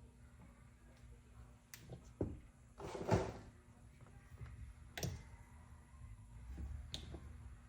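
Steel valve springs and a spring tester being handled during a test run: a few separate knocks and clunks, with a short scraping clatter about three seconds in.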